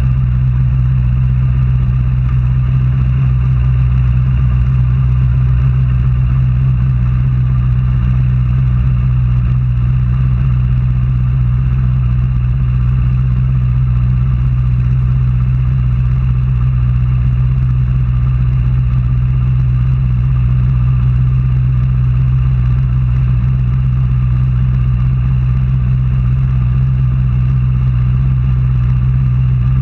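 An engine running steadily at an unchanging speed, like idling: a constant low hum with no revving up or down.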